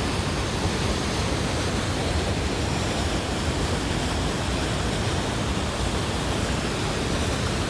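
Steady, even rush of falling water from Niagara Falls.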